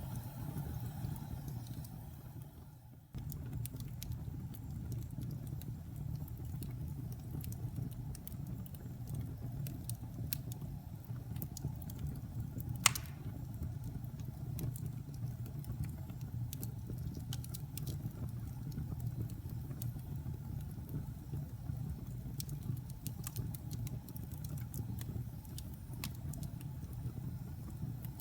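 Wood fire crackling, with a steady low rumble under scattered sharp pops and one much louder pop about 13 seconds in. The sound fades briefly and cuts back in abruptly about three seconds in.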